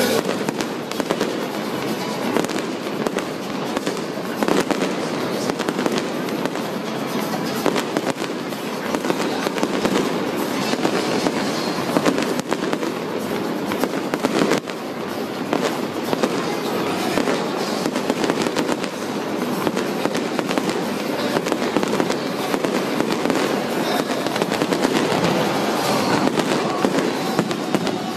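Fireworks display: a dense, continuous barrage of bangs and crackling, with a few sharper, louder single reports now and then.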